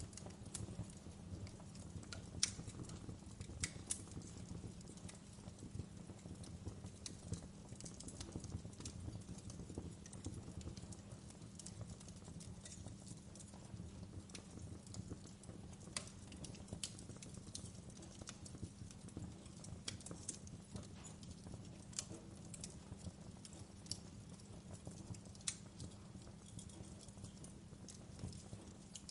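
Wood fire crackling: irregular snaps and pops, a few louder than the rest, over a low, steady rumble.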